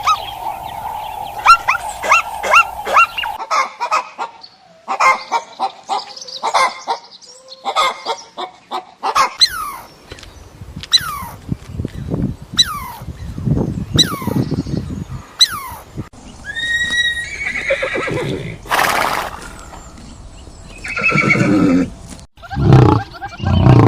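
A run of animal calls that changes every few seconds, with horses whinnying most prominent, including a series of evenly spaced falling calls in the middle.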